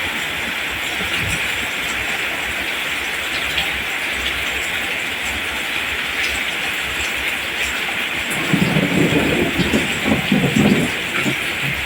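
Steady rain falling on rice plants, an even hiss of drops throughout. Near the end a low, uneven rumbling swells up for a few seconds under the rain.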